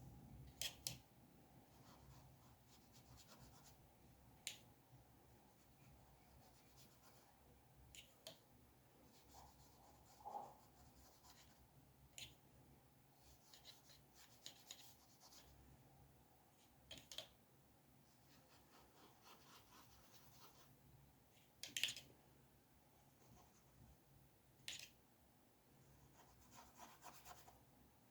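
Faint, sparse scratches of a pen or pencil drawing on paper: a short stroke every few seconds, the clearest one about 22 seconds in, over a low room hum.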